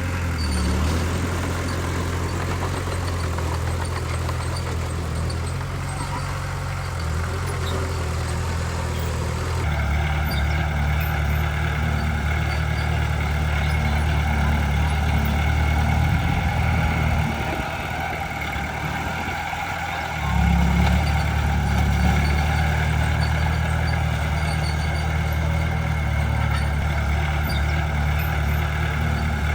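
Heavy diesel earthmoving machinery running steadily, a bulldozer and dump trucks at work. The drone changes abruptly about ten seconds in, sags a little past halfway, then comes back louder about two-thirds of the way through.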